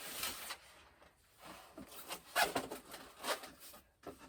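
Irregular rustling and rubbing of packaging and plane parts being handled, in a few short bursts, the loudest about two and a half seconds in.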